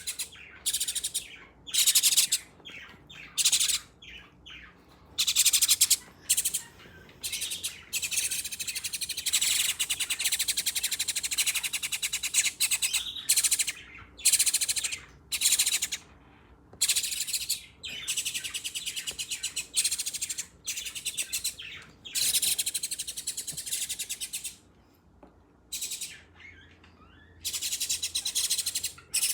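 Birds chirping in many loud bursts of rapid high-pitched notes, each burst lasting a second or two with short pauses between, easing off for a few seconds near the end.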